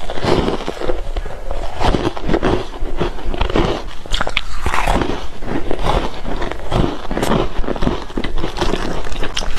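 Ice being bitten and crunched up close, with many rapid, irregular crunches one after another.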